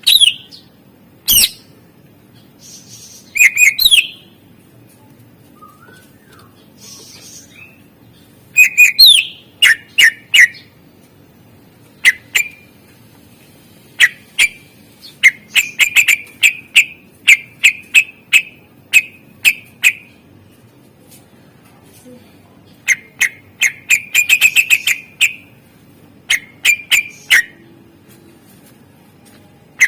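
Greater green leafbird (cucak ijo) singing loud, sharp whistled notes and sweeps in bursts separated by short pauses, with fast runs of repeated notes. This is a varied song with 'isian' fill-ins, mimicked calls of other birds.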